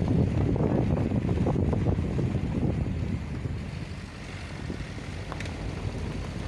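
Steady low rumble of a vehicle moving along a rough road, with wind on the microphone; it eases off somewhat about halfway through.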